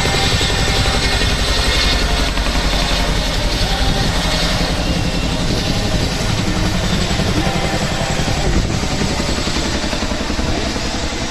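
Chinook helicopter's twin rotors running with a steady, rapid low chop and engine noise.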